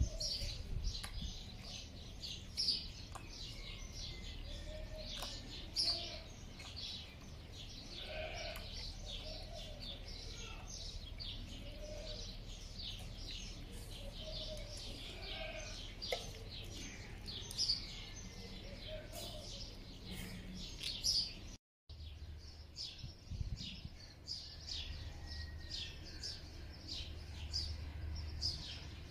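Many small birds chirping continuously, in quick, short, high chirps, with a few softer, lower calls in between and a faint low hum underneath. The sound cuts out for an instant about three-quarters of the way through.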